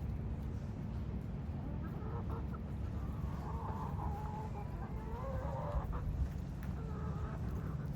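Chickens clucking, with a run of calls through the middle of the stretch, over a steady low rumble.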